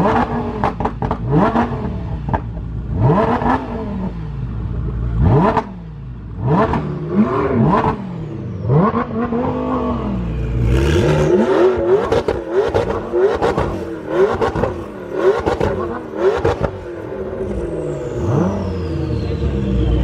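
High-performance car engines being revved in repeated throttle blips, each rev climbing and falling back, about one a second. About halfway through, a second, higher-pitched engine joins with quicker blips and sharp cracks between revs.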